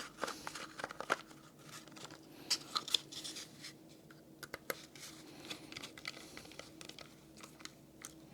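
Light handling noises: scattered small clicks and scratches as parts of a plywood switch box are worked by hand, over a faint steady hum.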